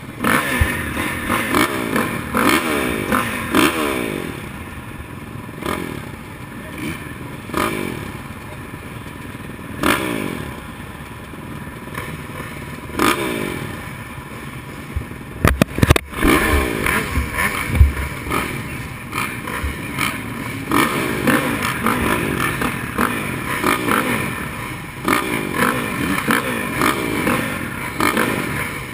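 Motocross dirt bikes revving hard and running up through the gears, the engine pitch climbing again and again as several bikes overlap. A few sharp knocks come about halfway through.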